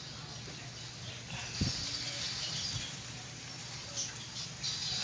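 Rustling hand-handling noise of a ripe seeded banana being broken open, with a soft dull knock about a second and a half in and a smaller one a second later, over a steady low hum.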